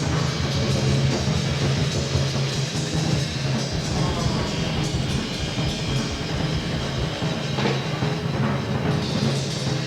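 Live rock band playing with heavy drumming and percussion over a sustained low bass note, on a dense, lo-fi audience recording.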